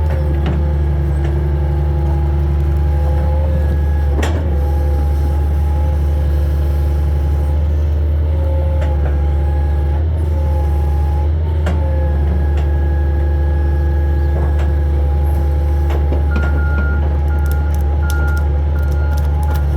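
Hitachi 225 hydraulic excavator's diesel engine running steadily under load, with hydraulic whine that shifts in pitch and a few sharp knocks. Near the end, a travel alarm starts beeping about twice a second.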